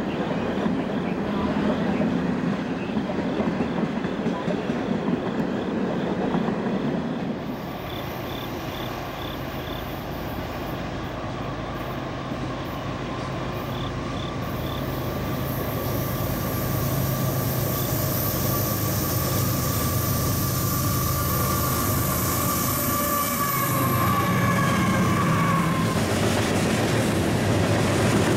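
Train running on the rails, a rolling rumble. From about seven seconds in, steady drawn-out high tones sit over the rumble and slowly grow louder.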